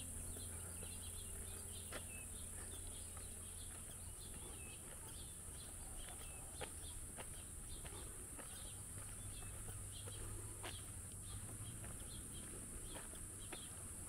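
Small birds chirping and calling in many short notes, faint against steady outdoor ambience with a low distant hum.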